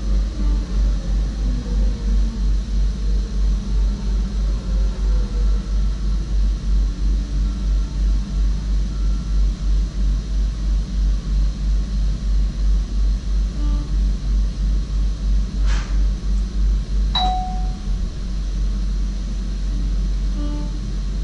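SGM Sprinter electric train running at speed, heard in the driver's cab: a deep rumble pulsing about three times a second that turns steady near the end. About three-quarters through there is a sharp click, then a single short chime.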